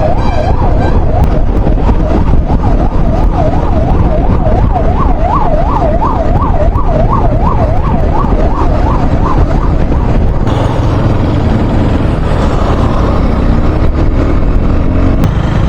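Ambulance siren in a fast yelp, rising and falling about twice a second, which cuts off about ten seconds in. A steady low rumble of road and wind noise runs underneath.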